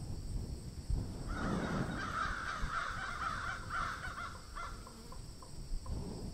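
A bird giving a run of rough, pulsing calls for about three seconds, starting just over a second in, over a steady low rumble.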